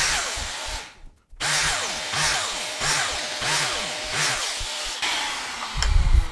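Plunge saw running and cutting into wood panel along a marked line, its noise swelling and easing about every two-thirds of a second. A heavy low thump comes near the end.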